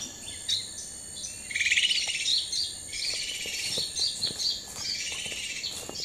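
Small songbirds chirping and twittering, several short calls overlapping. A rapid trill about one and a half seconds in is the loudest.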